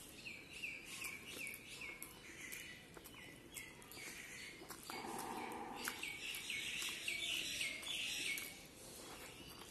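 A bird chirping in two quick runs of short repeated notes, over the wet chewing and smacking clicks of someone eating rice and curry by hand.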